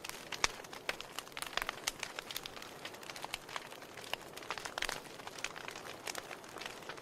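Wood fire in a fireplace crackling, with frequent irregular sharp pops and snaps from the burning logs over a soft hiss of flame.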